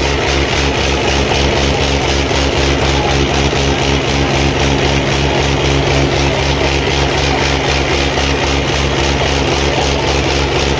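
Tractor diesel engine running steadily, with an even, regular low throb.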